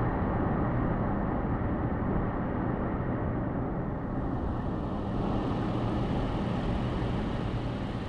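Steady road and tyre noise of a car driving at highway speed, with a low drone underneath; a brighter hiss joins about halfway through.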